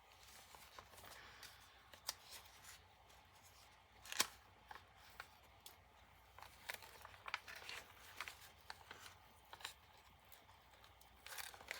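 Faint handling of a handmade journal's paper and card pages: light rustling and scattered soft taps, with one sharper tap about four seconds in and more rustling near the end.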